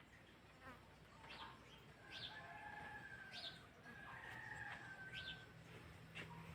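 Faint birdsong: short whistled chirps sweeping up and down, about one a second, mixed with longer held whistled notes. A steady low hum comes in near the end.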